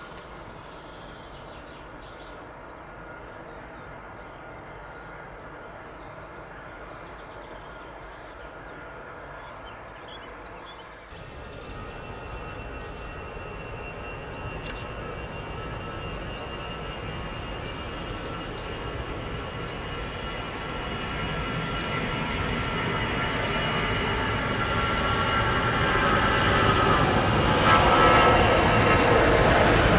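Airbus A320-200 jet engines running with a steady whine, fairly faint at first as the airliner taxis. About eleven seconds in the sound jumps louder and then grows steadily as the engines run at takeoff power, becoming loud by the end.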